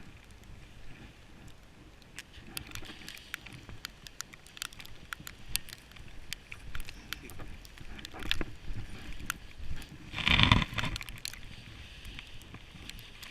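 Irregular crunching and scraping in snow, with one louder rush of noise about ten and a half seconds in.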